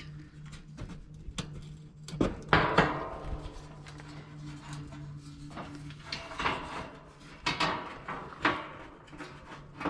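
Knocks and metallic clatter of parts and tools being handled, a handful of separate bangs with the loudest about two seconds in, over a steady low hum.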